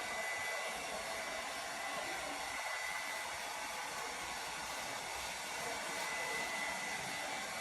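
Steady rushing air from a small electric blower, with a faint thin whine held at one pitch.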